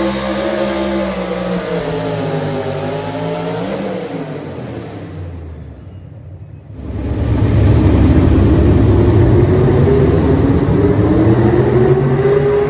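Small-block V8 engine of a four-wheel-drive pulling truck running hard with a wavering pitch, easing off and dropping away about four seconds in. Near seven seconds in, an engine opens up loudly and climbs steadily in pitch.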